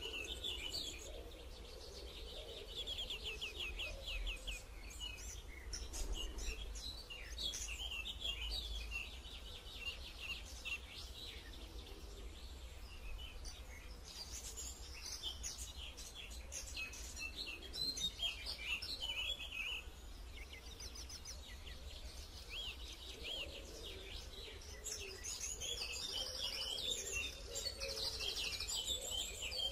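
Wild birds chirping and trilling, many short high calls and quick trills overlapping throughout, with a faint low rumble underneath.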